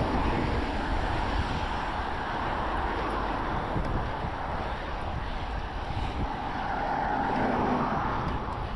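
Road traffic noise heard from a moving bicycle, with a steady low rumble of wind on the microphone. A vehicle passing grows louder near the end.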